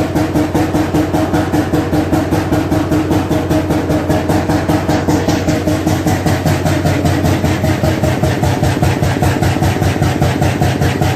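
Ninety-year-old 35 hp Primo hot-bulb oil engine running at a steady slow speed, a regular thudding beat about four times a second.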